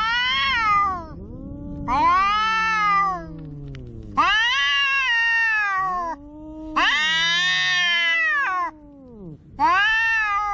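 Two tomcats yowling at each other in a fight standoff: long, wavering caterwauls that rise and fall in pitch, about five drawn-out calls, with a lower second voice overlapping them.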